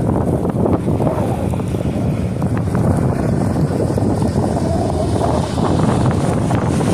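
Wind buffeting the microphone in a snowstorm: a steady, gusty low rumble with no clear tones.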